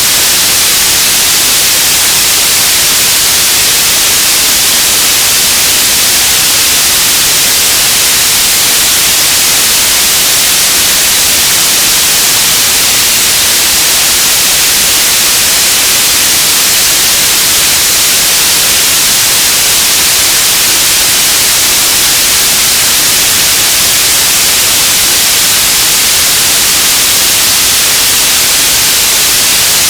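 Radio static: a loud, steady hiss, strongest in the upper frequencies, with no tones or breaks.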